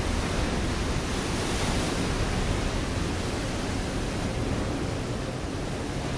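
Ocean waves breaking on a rocky shore: a continuous wash of churning surf that swells slightly about two seconds in and eases a little near the end.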